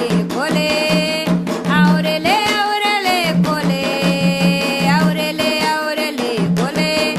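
Candomblé Ketu ritual chant for Xangô: voices singing a sliding melodic line over continuous drumming.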